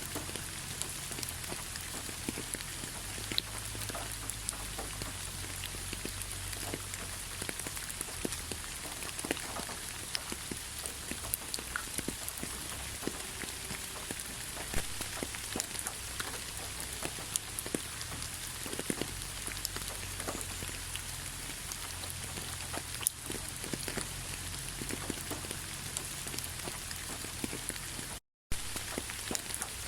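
Steady rainfall: an even hiss of rain with many separate raindrop ticks scattered through it. The sound cuts out completely for a split second near the end.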